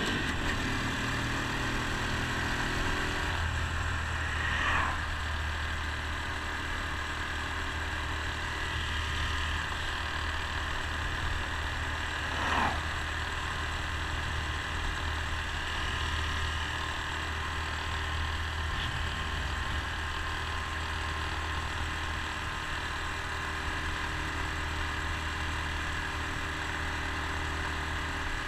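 Honda Super Cub C125's air-cooled single-cylinder engine running steadily at cruising speed, with a constant low hum under wind and road noise. Two brief falling swishes stand out about 5 and 12.5 seconds in.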